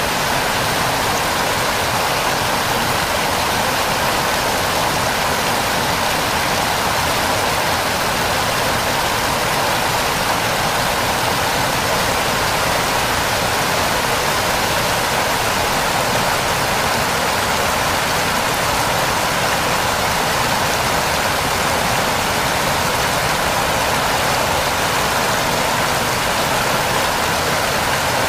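A waterfall: falling water rushing steadily and evenly, a bright hiss with little deep rumble, unchanging throughout.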